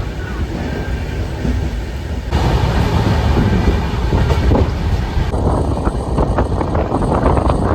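Passenger train running at speed: steady rumble of wheels on the rails, growing louder about two seconds in, with dense rapid clattering in the last part.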